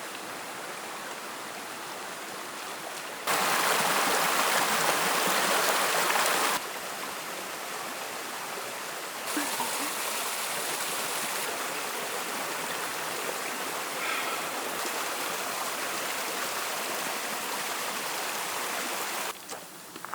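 Flowing stream water, a steady rushing noise that changes abruptly in loudness several times, loudest from about three to six and a half seconds in.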